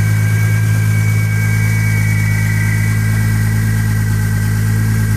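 Lexus GS300's 2JZ-GTE inline-six, converted to a single turbo and running on E85, idling steadily while still cold after a cold start, with a steady high whistle over the engine hum.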